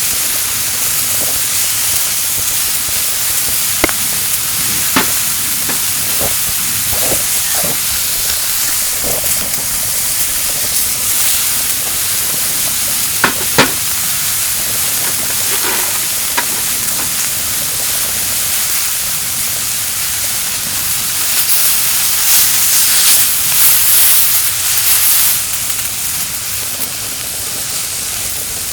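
Yakiniku meat sizzling on a grill plate over a kerosene heater: a steady frying hiss with scattered sharp pops, swelling louder for a few seconds late on.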